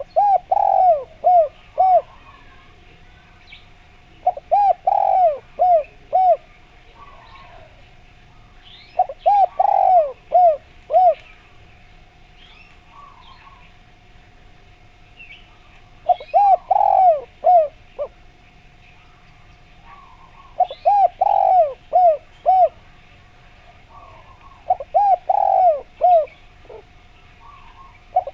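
Spotted dove (derkuku) cooing: six phrases of about five quick, clipped coos each, one phrase every four to five seconds. Faint chirps of small birds and a faint steady hum lie between the phrases.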